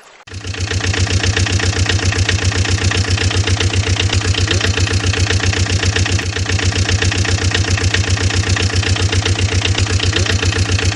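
A vehicle engine idling with a fast, even chugging rhythm. It comes in suddenly just after the start and then holds steady.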